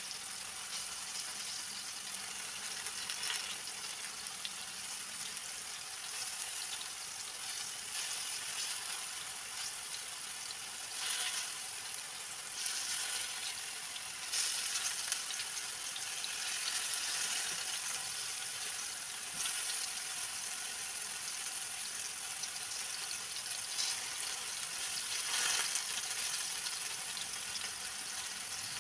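Plantain slices frying in hot oil in a frying pan, a steady sizzling hiss. Now and then it swells briefly as pieces are turned over with a metal fork.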